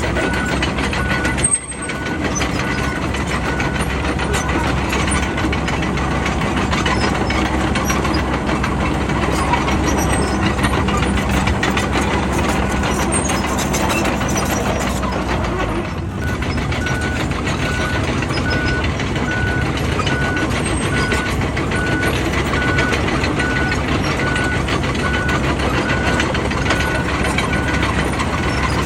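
Bulldozer's diesel engine running steadily under work, with its reversing alarm beeping about twice a second; the beeping stops a few seconds in and returns a little past halfway.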